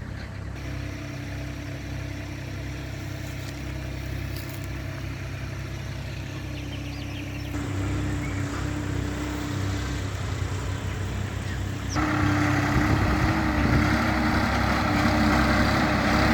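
Swaraj 969 FE tractor's diesel engine running steadily, growing louder in sudden steps, the biggest about three-quarters of the way through.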